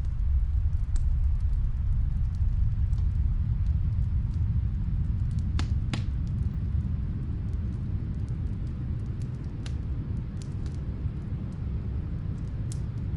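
Steady low rumble of snowstorm wind, with scattered crackles and pops from a wood fire, muffled as if from another room. A couple of the louder pops come near the middle.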